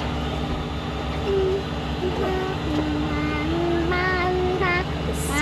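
A vehicle engine running steadily with a low hum. From about a second in, a child's high voice slides up and down in pitch over it, humming or singing.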